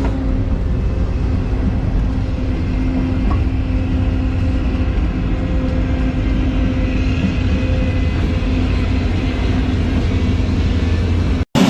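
Excavator's diesel engine running steadily with a low rumble and a constant-pitch hum; it cuts off suddenly near the end.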